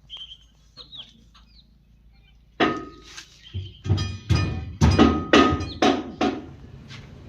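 A run of about eight loud, sharp knocks with a ringing tone, a few tenths of a second apart, starting about two and a half seconds in. Faint bird chirps come before them.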